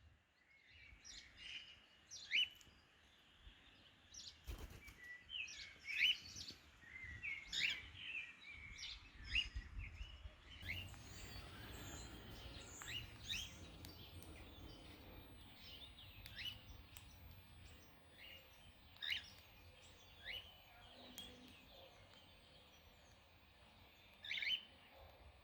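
Small birds chirping: many short, sharp chirps, some in quick runs, thickest in the first half and with a louder pair near the end, over a faint low rumble.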